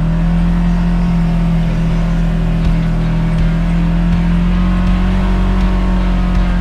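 Side-by-side UTV engine running at a steady pitch, a constant drone as the vehicle drives along the trail.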